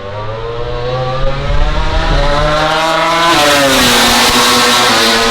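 A MotoGP race bike's 1000cc four-cylinder engine at high revs, loud, its pitch climbing for about three seconds, then dropping sharply and holding steady as it goes by.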